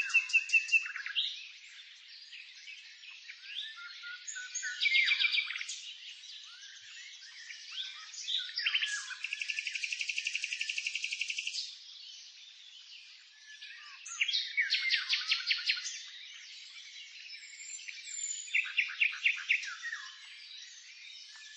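Songbirds singing: high-pitched phrases of rapid repeated chirps every few seconds, with a long even trill lasting about three seconds near the middle and soft twittering in between.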